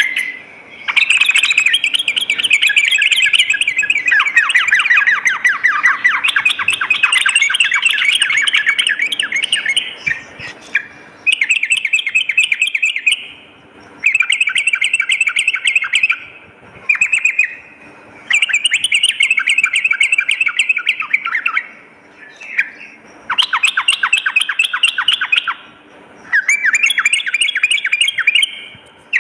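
Yellow-vented bulbul (trucukan) singing loud, fast, bubbling chattering phrases, repeated in bouts with short pauses between them. The first bout, the longest, runs for several seconds.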